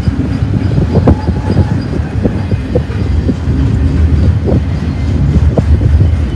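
Double-stack intermodal freight train's well cars rolling past close by: a steady low rumble of steel wheels on rail, with frequent knocks and rattles from the cars and their container loads.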